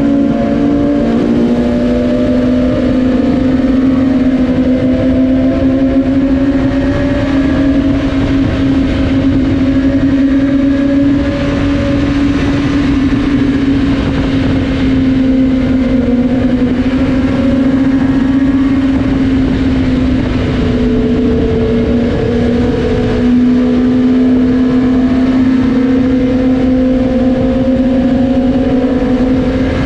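Superbike engine and exhaust running at steady cruising revs, its pitch drifting slightly up and down, over a constant rush of wind and road noise.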